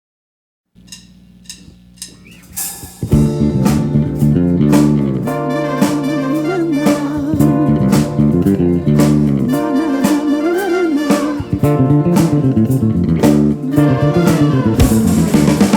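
Live soul band playing: out of silence come a few clicks at an even beat over a held low keyboard note, then drums, bass, keyboards and electric guitar come in together about three seconds in and play on, with a bending lead guitar line on top.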